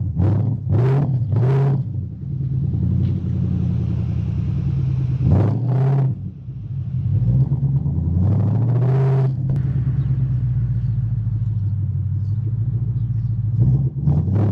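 Ford Mustang GT S197 V8 being revved: three quick throttle blips in the first two seconds, a single sharp rev about five seconds in, a longer rise and fall around eight to nine seconds, and more quick blips near the end, with a steady idle rumble in between.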